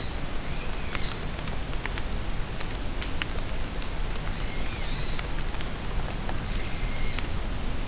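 Steady rain falling in a forest, with single drops ticking close by, and a bird calling three short high phrases, about half a second in, near the middle and near the end.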